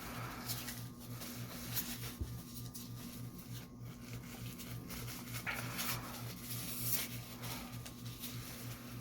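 Close-miked eating sounds: irregular chewing and mouth noises, over a steady low electrical hum.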